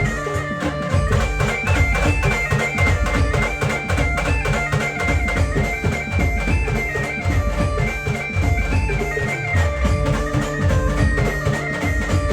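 Maharashtrian brass band playing an instrumental passage: a stepping, high melody line over a dense, fast drum beat, with no singing.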